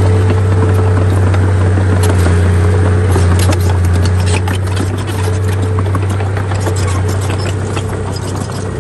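Heavy earthmoving machine's diesel engine running steadily, with a deep hum. A run of rattles and scraping clanks comes about two to five seconds in, then the level eases slightly.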